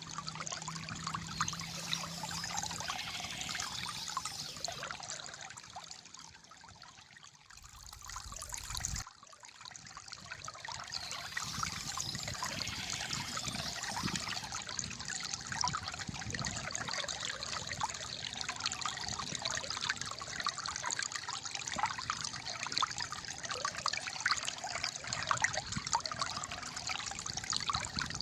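Calm flowing water trickling and gurgling. It dips quieter for a few seconds, then a brief louder rush cuts off suddenly about nine seconds in, and the steady trickle returns.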